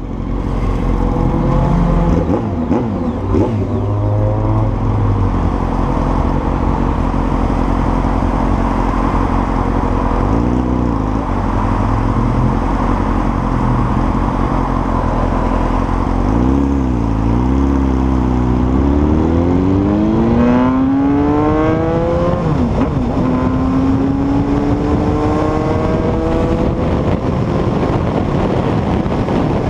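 Honda CBR900RR FireBlade's inline-four engine running low and steady, then accelerating hard from about halfway. Its pitch climbs, drops at two upshifts, and climbs again.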